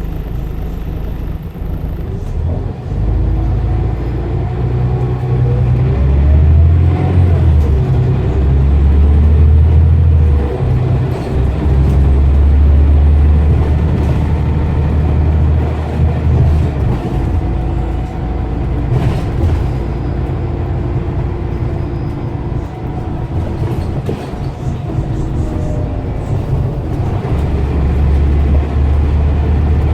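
Scania CN94UB OmniCity bus engine working hard under heavy acceleration. Its pitch climbs and falls back as it goes through the gears, loudest about midway, easing off, then building again near the end.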